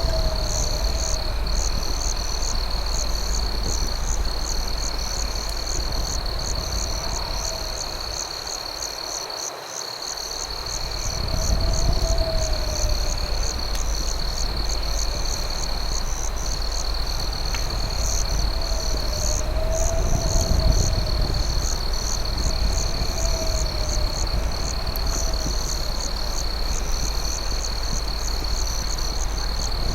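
Night insect chorus: crickets trilling steadily at a high pitch, with a faster pulsing chirp above. A lower rising-and-falling call repeats every few seconds over a low rumble, and the rumble briefly drops away about a third of the way in.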